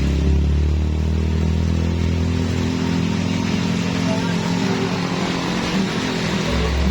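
Heavy truck engine running under load, a steady low drone whose lowest note drops away partway through and returns near the end.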